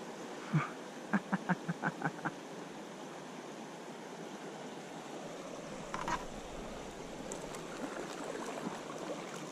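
Steady rush of flowing river water, with a thump about half a second in and a quick run of about seven light knocks a second later.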